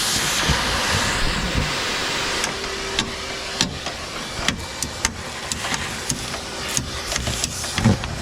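A steady hiss for about the first two and a half seconds, then scattered sharp clicks and knocks of hand work over a faint steady hum.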